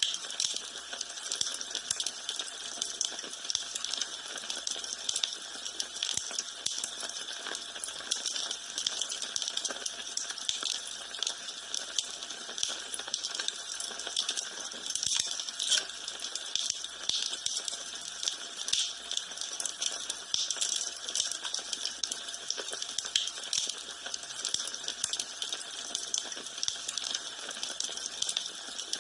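Wood fire crackling in a fireplace: a steady stream of small pops and snaps.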